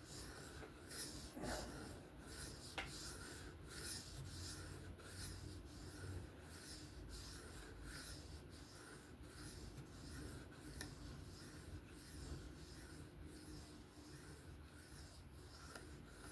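Knife blade stroked back and forth across a ceramic sharpening stone with light pressure, a soft scraping about one and a half strokes a second: deburring the edge.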